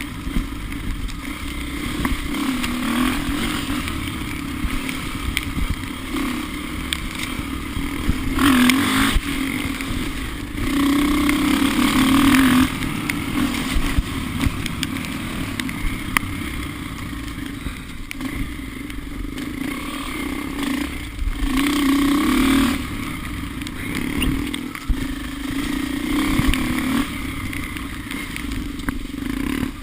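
Off-road vehicle's engine running steadily on the trail, revving up briefly a few times: about 9 seconds in, again from about 11 to 12 seconds, and from about 21 to 22 seconds.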